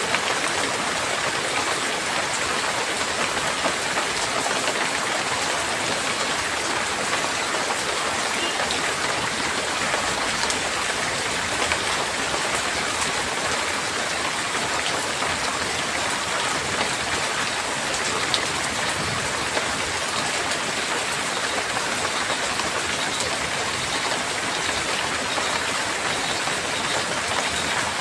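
Steady heavy rain falling on hard surfaces, a dense, even hiss full of small drop patters.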